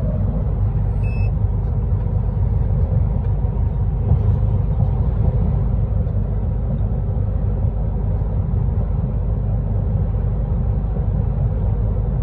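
Truck running on the road: a steady low engine and road rumble with no change in pace. A short electronic beep sounds about a second in.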